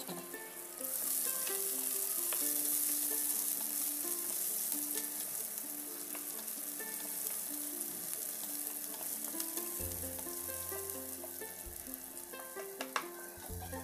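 Oil sizzling as a tempering of chopped green chillies, dal and seeds fries in a pan, stirred with a plastic spatula with an occasional click; the sizzle comes up about a second in. Background music plays underneath, with a low bass line joining near the end.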